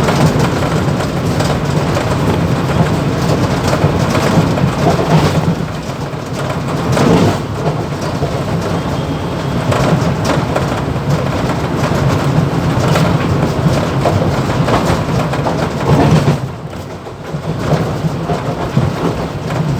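Mumbai local electric multiple-unit train running at speed, heard from inside the motorman's cab: a loud, steady rumble and hum with constant irregular rattling and knocking from vibration shaking the recording phone on the dashboard. The noise eases briefly near the end.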